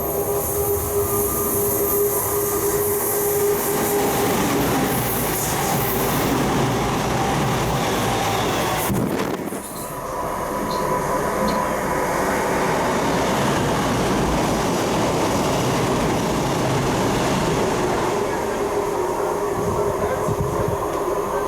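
Passenger train running past, a steady rumble of wheels on rails with high whining tones held over it. The sound dips briefly about nine seconds in, then carries on.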